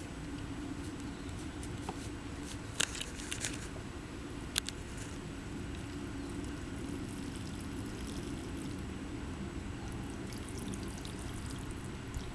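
Water pouring steadily from a watering can onto plants, with a few light knocks around three seconds and four and a half seconds in.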